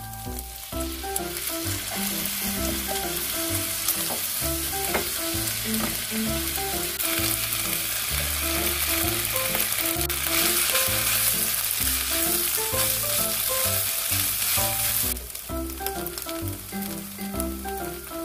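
Fried rice sizzling and being stirred in a hot nonstick wok. A splash of water goes in near the start, added to help the cold rice break up; the sizzle builds soon after and drops away sharply about fifteen seconds in.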